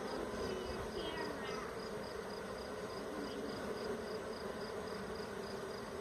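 Steady buzzing hum of a honey bee swarm, many bees flying around and landing at a hive box as they move into it.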